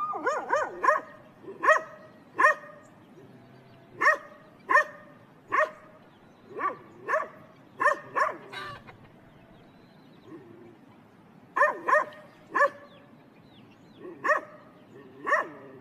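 A dog barking repeatedly in short barks, singly and in quick runs, with a lull of a couple of seconds past the middle.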